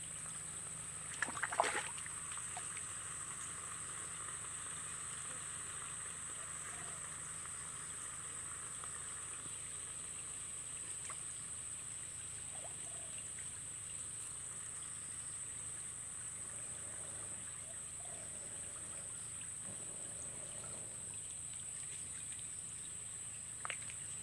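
Steady trickle of running water, like a small forest stream, with a constant high-pitched hiss over it. A few brief knocks about a second and a half in.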